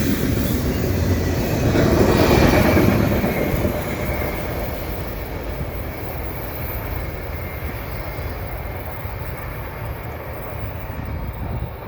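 Freight train cars rolling over the rails, the wheel noise swelling about two to three seconds in and then fading steadily as the end of the train moves away.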